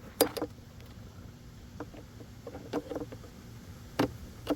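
Scattered light clicks and knocks of a hand tool against the hose-clamp screw and intake duct under the hood. Two come close together just after the start, a cluster follows about two and a half seconds in, and two more come near the end, over a low steady hum.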